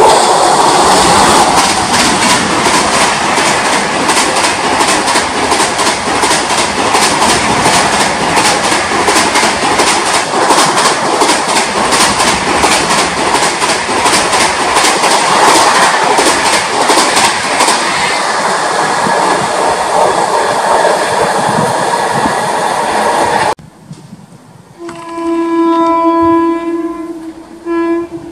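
Indian Railways WAP-7 electric locomotive and its passenger coaches passing at speed, the wheels clattering over rail joints in a fast, loud rhythm. Near the end another WAP-7's horn sounds one long blast, then a short one.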